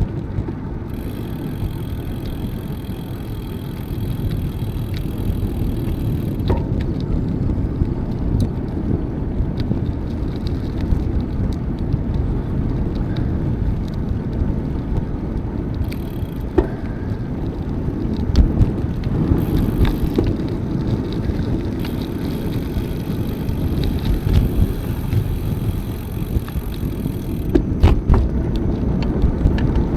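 Riding a bicycle: a steady rumble of wind on the microphone and tyres on the path, with a high hiss that comes and goes several times and a few light clicks.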